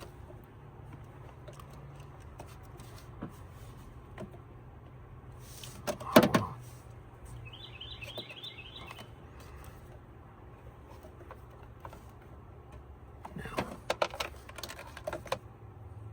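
Hands fitting a plastic PCV vacuum tube onto engine valve covers: scattered clicks and rattles, one sharp knock about six seconds in and a cluster of clatters near the end, over a steady low hum.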